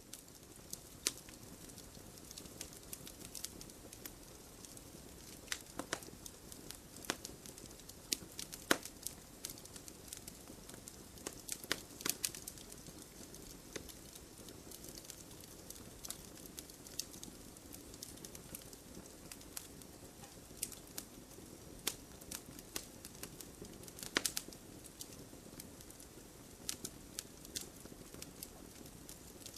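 Wood fire crackling: irregular sharp pops and snaps over a steady low hiss, with a handful of louder snaps scattered among the small ones.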